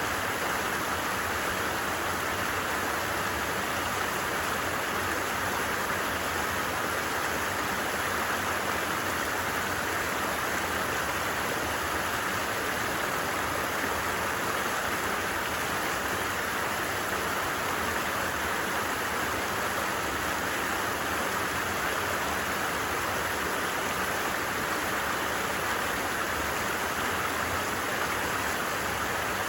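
A stream's water babbling and rushing in a steady, unbroken wash.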